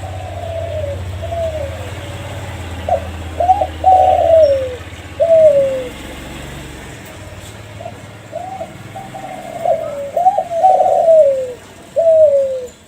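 Kelantan spotted dove (derkuku) cooing: two song phrases, each a run of short coos ending in a longer falling note, the second phrase cut off just before the end. A low hum underlies the first half.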